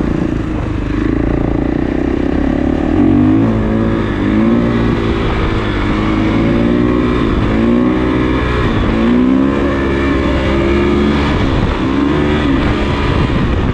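Kawasaki KX450 dirt bike's single-cylinder four-stroke engine under throttle while riding, its pitch climbing and dropping back again several times in a row.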